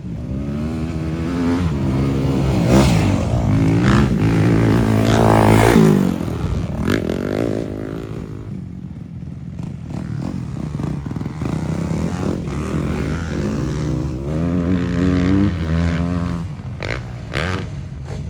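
Motocross bike engines revving and running on the track, the pitch climbing and falling with the throttle. The sound is loudest about three to six seconds in, eases off, then builds again near the end.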